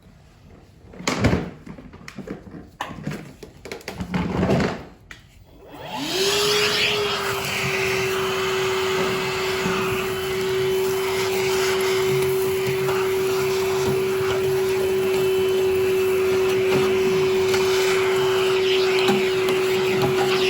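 A few knocks and clatters, then about six seconds in a small electric motor spins up and runs steadily with a constant whine over a rushing hiss of moving air.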